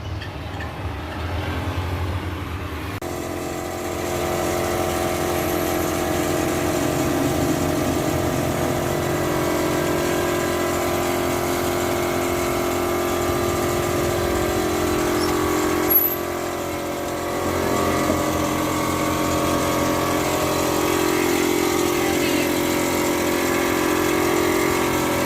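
A motor running steadily, its hum made of several pitched tones. It starts about three seconds in, drops off briefly with a click past the middle, and then runs again.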